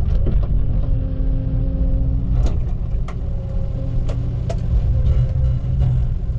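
Log loader's diesel engine running steadily, with a tone coming in and out twice as the boom is worked, and a few sharp clicks or knocks.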